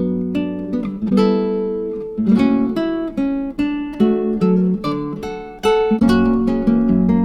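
Background music: acoustic guitar, plucked and strummed notes with a steady rhythm.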